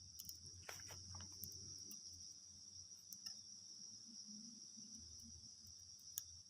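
Crickets trilling steadily in a high, even drone, with a few faint clicks about a second in and again near the end.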